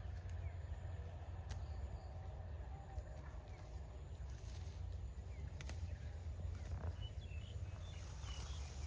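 Outdoor rural ambience: a steady low rumble with a few faint clicks, and several short, high bird chirps near the end.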